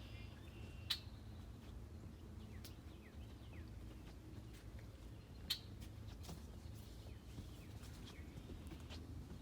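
Faint outdoor ambience: a steady low rumble with a few short, faint bird chirps, and two sharp clicks, one about a second in and one near the middle.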